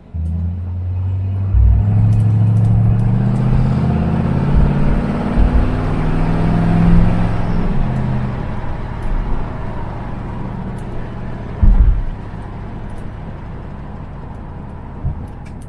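1966 Ford Mustang's A-code 289 V8 running under load, its note building and climbing slightly in pitch, then fading away over the second half. A couple of dull low thumps come near the end.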